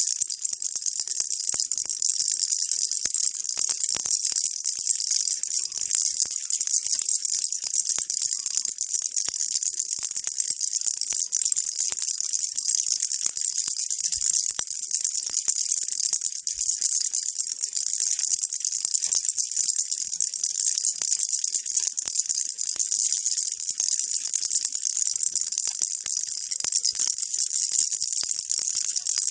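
Baby rattle shaken continuously: a dense, steady, high-pitched rattling with no pauses.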